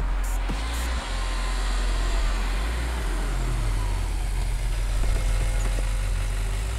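Motorcycle engine slowing down, its pitch falling, then running at idle as the bike comes to a stop.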